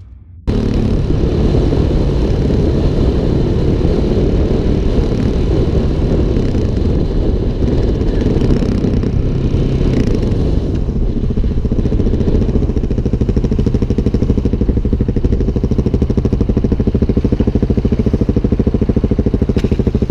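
Motorcycle engine running steadily, with an even, fast pulsing of the exhaust.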